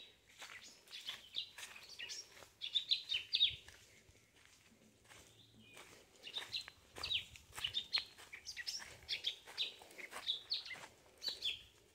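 A bird chirping in quick runs of short, high notes, in two bouts: one about a second in and another from about six seconds. Under them are footsteps crunching on dry leaf litter.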